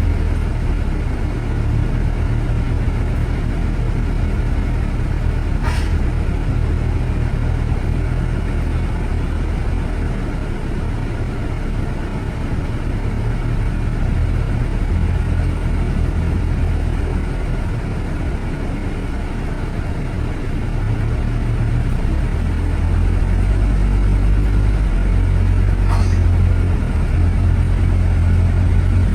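Steady low rumble of city road traffic, with two brief ticks, one about six seconds in and one near the end.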